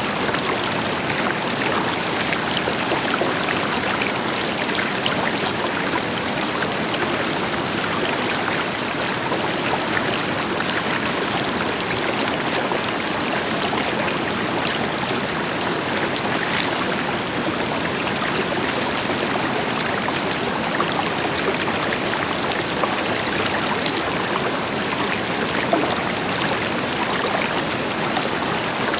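Steady rushing of a river flowing over rocks, with the deeper hiss of a waterfall further off blended in. Even and unbroken, with small splashes and trickles.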